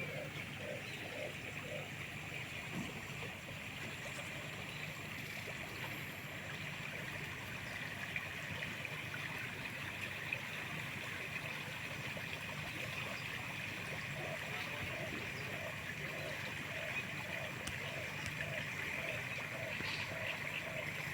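Steady rush of river water. A bird calls a short, low, repeated note about twice a second at the start and again from about two-thirds of the way in.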